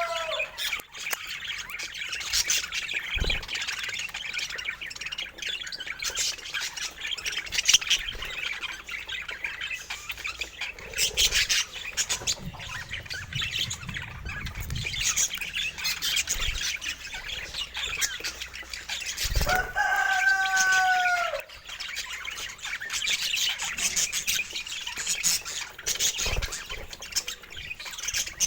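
Budgerigars chattering and chirping without pause, a busy high twittering. About two-thirds of the way in comes one lower, drawn-out call of about two seconds that falls away at the end.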